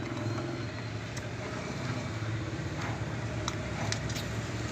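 Steady low background rumble, with a few faint small clicks of work on a CRT TV circuit board as a faulty variable resistor is taken out.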